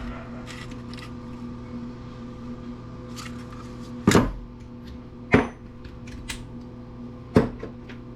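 Tools and metal parts being handled on a workbench during disassembly: a few light clicks, then three sharp knocks, about halfway through, a second later and near the end, over a steady low hum.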